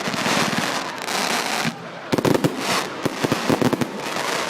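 Fireworks going off: rapid crackling pops with hissing, easing off briefly just before halfway and then picking up again with more pops.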